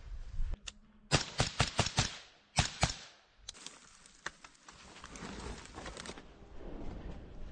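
A quick, irregular series of about eight sharp cracks or clicks in under two seconds, then another sharp crack followed by rustling and fainter handling noise.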